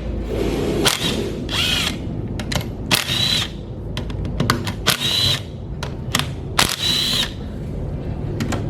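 Cordless power driver whirring in four short runs with a high whine, as bolts are backed out of the engine's top end, with metal clicks and knocks of the tool and parts between runs.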